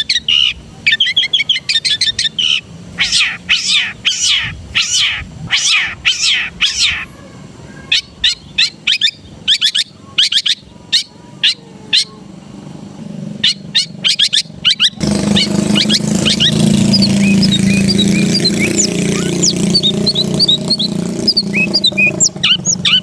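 Long-tailed shrike singing: bursts of rapid, harsh chattering notes with mimicked fill-ins. About two-thirds of the way through, the recording changes abruptly to a busier background of many faint high chirps over a steady low hum.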